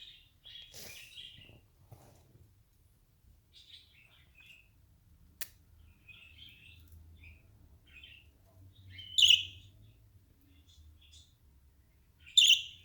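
Pet birds chirping softly on and off, with two loud, sharp calls about three seconds apart, the first about nine seconds in and the second near the end. A single sharp click about five seconds in.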